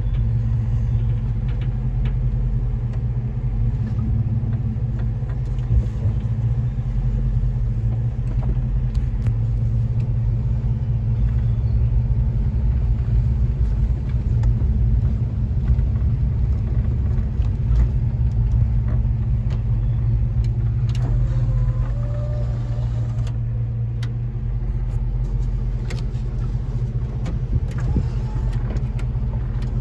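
A GM 4.3 V6 in a 1947 Ford F1 pickup running steadily as the truck cruises down the road, the engine and road drone heard from inside the cab.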